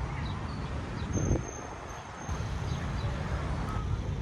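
Street traffic: a steady low rumble of engines, with a louder passing vehicle swelling up about a second in.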